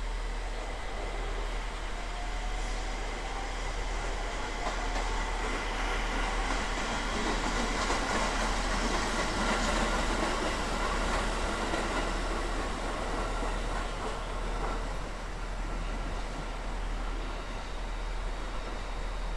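A train passing by, its noise swelling to a peak about halfway through and then fading away, with a faint whine in it.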